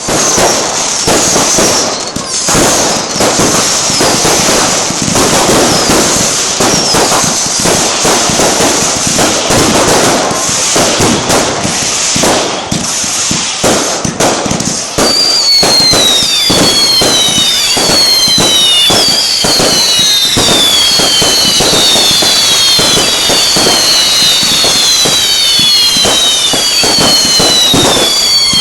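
Fireworks going off: dense crackling and popping, then from about halfway many overlapping whistles, each falling in pitch.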